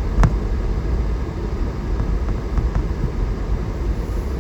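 Steady rush of a car's heater blower fan inside the cabin over the low rumble of the vehicle driving. A single sharp knock comes just after the start.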